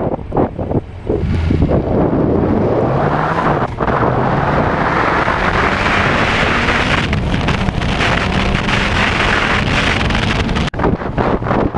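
Honda CB400 motorcycle riding, with heavy wind rushing over the handlebar-mounted action camera's microphone and the engine underneath, its pitch climbing as it accelerates.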